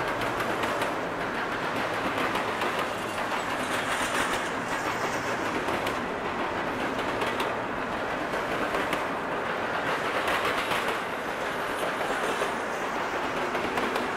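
A train rolling past on steel rails: a steady rumble of wheels on track with faint repeated clicks.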